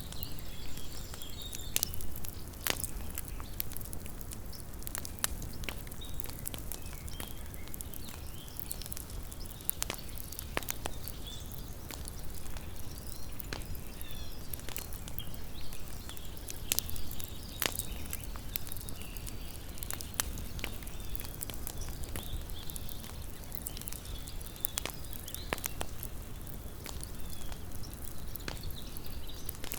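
Small wood campfire burning, with irregular sharp pops and snaps of varying loudness over a low, steady rumble of the flames.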